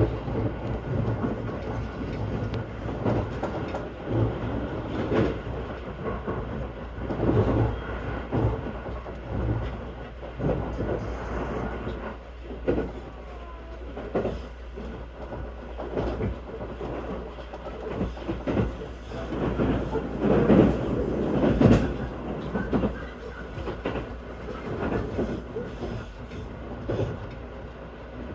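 Running noise inside a JR 255-series electric train at speed: a steady low rumble of wheels on rail, broken by uneven knocks and rattles.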